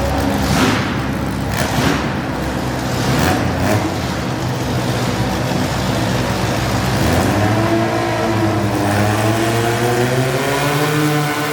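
Modified garden pulling tractor engine running hard, then revving up with a steadily rising pitch from about seven seconds in.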